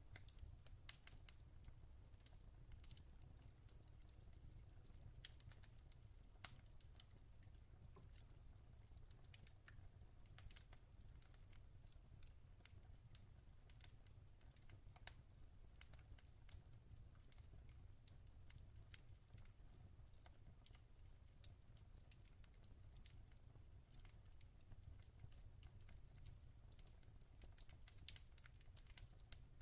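Log fire crackling quietly: scattered small, irregular pops and snaps over a faint low rumble, with one sharper pop about six and a half seconds in.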